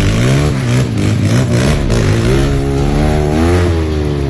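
Trail motorcycle engine revving up and down several times, with a longer rev climbing in pitch in the second half and falling away near the end.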